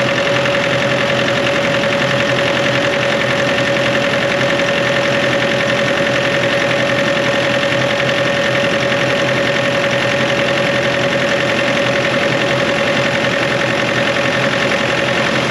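Bobcat D24 2.4-litre common-rail turbocharged diesel engine running steadily, with a steady whine over it; it has just started after being a no-start, fixed by replacing a fuel injector.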